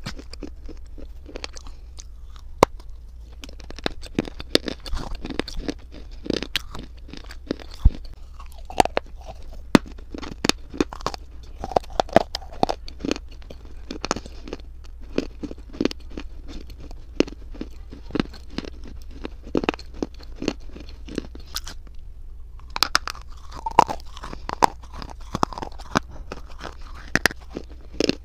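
Close-miked chewing and crunching of a chunk of reddish-brown clay: dense, irregular crunches and sharp clicks, with a brief pause about three-quarters of the way through. A low, steady hum sits beneath.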